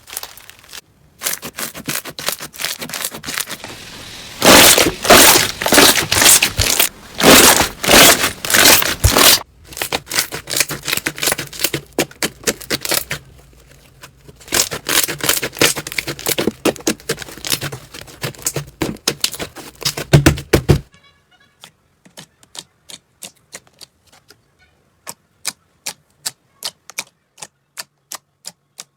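Slime being squeezed and pressed by hand, giving dense crackling and popping. About 21 s in it gives way abruptly to sparse single clicks, a few a second.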